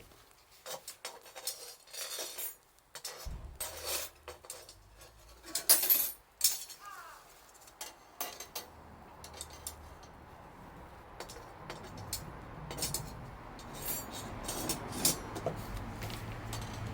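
Scattered clinks and knocks of metal cookware and utensils being handled. A low vehicle rumble starts about three seconds in and grows louder toward the end.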